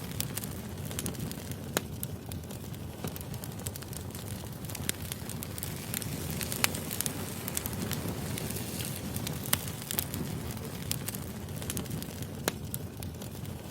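Burning firewood: a steady low rumble of flames with scattered sharp crackles and pops at irregular intervals.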